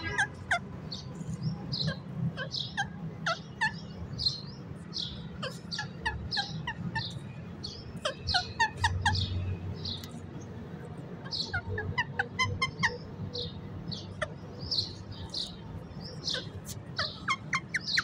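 Birds chirping: many short chirps and calls with quick pitch slides, several a second at times, over a steady low rumble.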